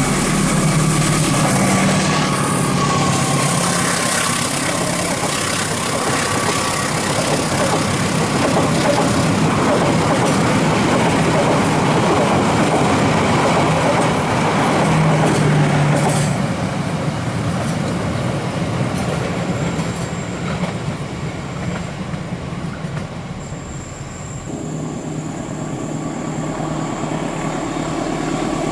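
Passenger train running by at speed: a steady, loud rush of wheels on rails, which eases somewhat in the last several seconds.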